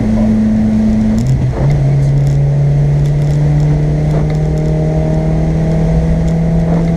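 Car engine pulling under throttle, heard from inside the cabin. Its pitch drops at an upshift a little over a second in, then it drones steadily.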